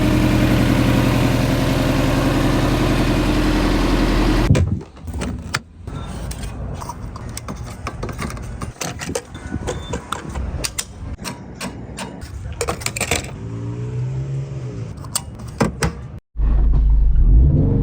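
Subaru WRX STI's turbocharged flat-four engine running steadily, then cutting off suddenly about four and a half seconds in, leaving scattered clicks and knocks. Near the end a loud low engine rumble comes back.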